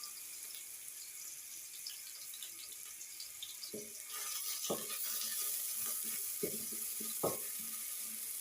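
Chopped onions frying in hot oil in a cooking pot: a steady sizzle that grows louder about four seconds in, with a few light knocks against the pot.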